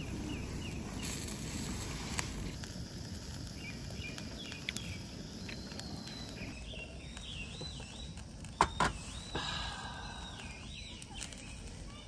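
Birds singing outdoors: a repeated warbling, up-and-down phrase that starts a few seconds in and runs on to near the end, over a steady low background rumble. A couple of light clicks come about two-thirds of the way through.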